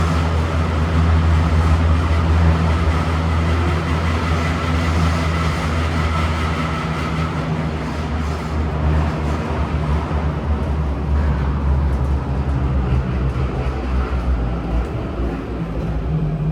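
Kawasaki-CRRC CT251 metro car running at speed, heard from inside: a steady low rumble with rapid repeated knocking from flat spots on the wheels. A whine fades out about halfway through.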